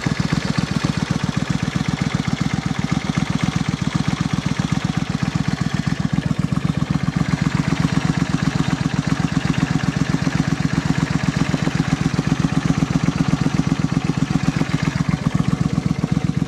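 Suzuki Intruder VS800's V-twin engine idling steadily through aftermarket exhaust pipes, a fast, even pulse.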